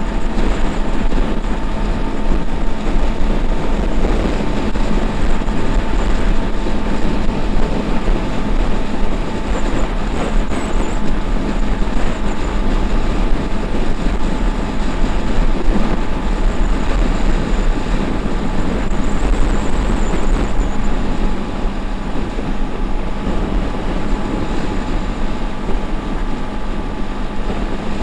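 Wind noise from a strong crosswind on the microphone of a Honda XRE 300 Adventure riding at highway speed, over the steady drone of its single-cylinder engine. The noise eases a little near the end.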